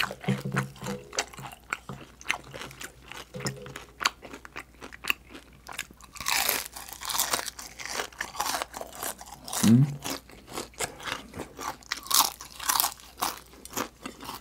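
Close-miked crunching and chewing of crispy deep-fried chicken skin, a dense run of sharp crunches that grows louder for a spell about halfway through.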